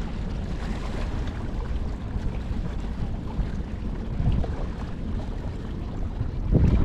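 Wind buffeting the microphone: a steady low rumble that gusts louder near the end.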